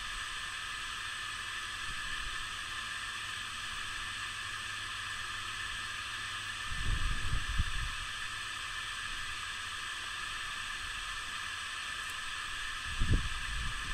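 Steady high hiss of a windy snowstorm. A gust rumbles on the microphone about seven seconds in and another near the end.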